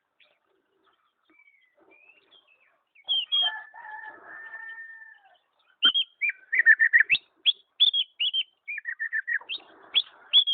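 A pet songbird singing: a few calls around three seconds in, then from about six seconds a fast run of sharp chirps and short whistles sweeping up and down.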